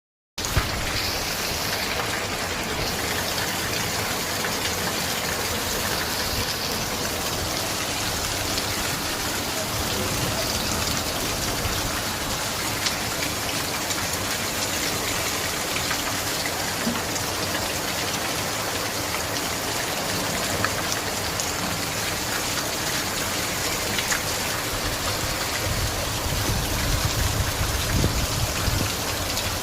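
Steady rain falling, an even hiss with scattered drop ticks. A low rumble swells in near the end.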